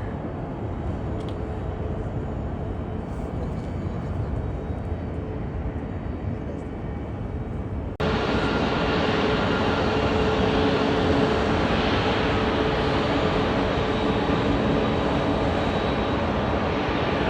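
Jet airliner engines: a steady low rumble that jumps abruptly louder about halfway through, becoming a fuller, steady jet roar with a whining tone in it.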